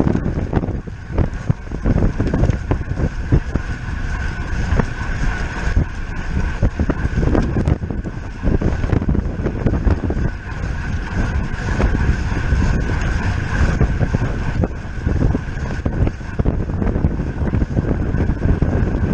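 Wind rushing over the microphone of a bicycle being ridden at race speed, with a steady high whir and scattered irregular clicks and knocks from the bike.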